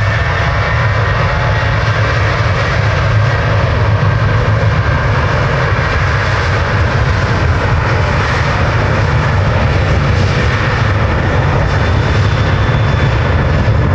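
Jet airliner's engines running loud and steady, with a high whine held throughout.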